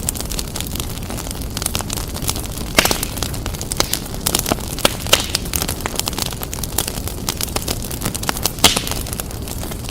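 Wood fire burning in a fireplace: a steady low rumble of the flames with frequent irregular crackles and sharp pops, a few louder pops standing out.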